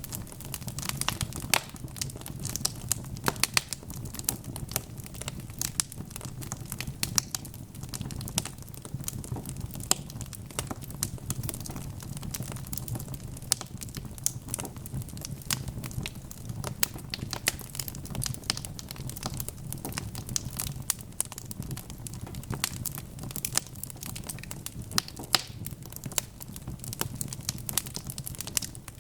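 Wood fire crackling: dense, irregular pops and snaps, several a second, over a steady low rumble of burning.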